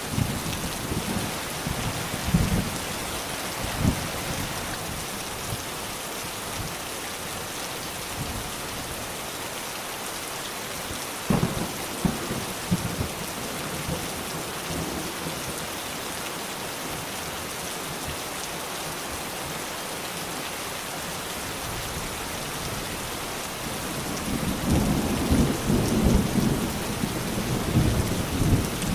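Steady rain falling, with thunder rumbling low beneath it: several short rumbles in the first few seconds, a sharp clap about eleven seconds in, and a longer, louder rolling rumble near the end.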